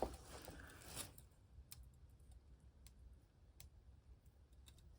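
Near silence: faint room tone with a handful of small, sharp clicks spaced irregularly through it.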